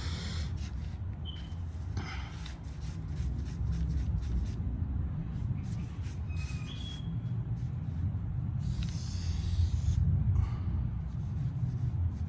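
Drawing strokes on paper, a run of short scratches and rubs with a couple of brief high squeaks of the tip, over a steady low room rumble.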